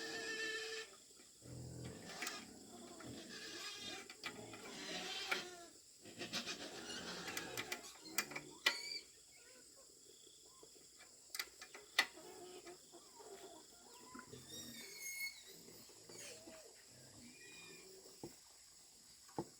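Faint animal calls, a few short pitched cries in the first half, with a few sharp clicks and faint high chirps later.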